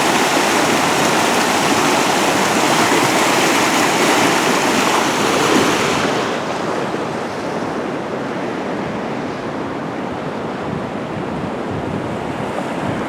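Fast floodwater rushing and churning in a steady roar. About six seconds in it turns duller and a little quieter.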